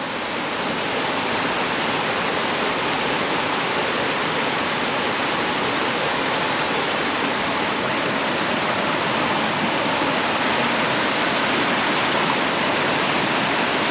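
Steady rush of fast-flowing river water, an even hiss with no breaks or changes.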